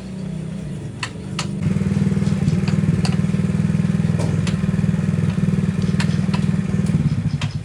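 A small motor running steadily with a fast buzzing hum. It grows louder about a second and a half in and cuts out near the end, with scattered sharp clicks throughout.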